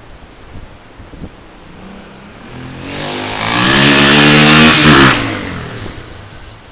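1992 Honda XR250R's single-cylinder four-stroke engine revving: it swells up a little under three seconds in, holds loud for about two seconds, then drops back quickly.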